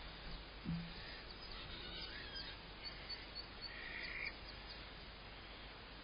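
Faint steady outdoor background noise with distant small birds chirping: a run of quick high chirps and a short held note in the middle. A soft low thump comes just under a second in.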